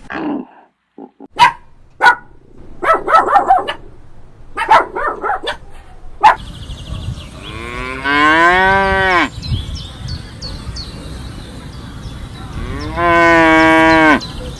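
Cow mooing twice: two long calls, the first rising in pitch and then holding, the second steadier. Before them come a few sharp knocks and short rough calls.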